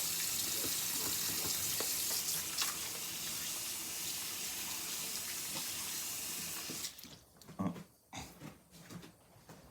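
Water tap running steadily into a sink, left on for the water to warm up, then shut off about seven seconds in, followed by a few faint knocks.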